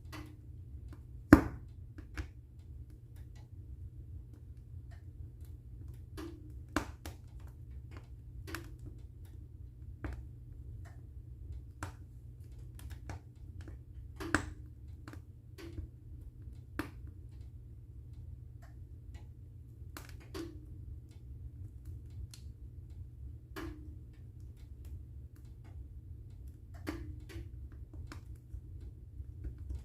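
Wood fire burning in a fireplace: irregular sharp crackles and pops every second or two, one much louder pop about a second in, over a steady low rumble of the flames.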